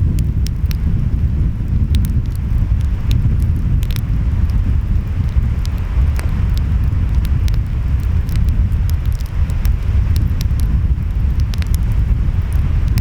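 Wood fire crackling with frequent sharp pops over a steady low rumble of ocean waves and wind.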